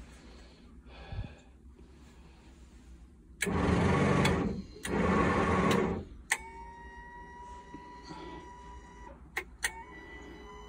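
An electric chute actuator, worked from a cab joystick, runs twice for about a second each time, moving the snow blower chute. A click follows, then a faint steady electrical whine and a few more clicks.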